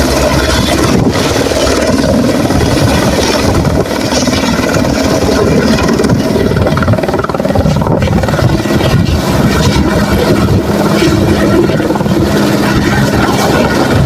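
Helicopter running at close range: loud, steady turbine and rotor noise, with a steady low hum joining in about ten seconds in.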